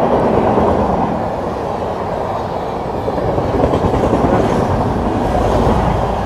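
Passenger train running slowly out of a station, heard from its open coach door: a steady rumble of wheels on the rails.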